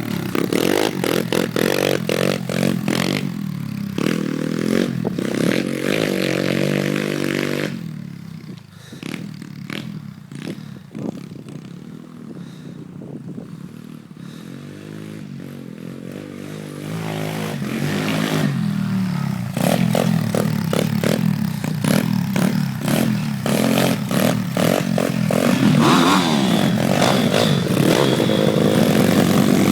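Single-cylinder pit bike engine revving up and down as the bike rides off. The sound fades away for several seconds in the middle, then comes back louder near the end.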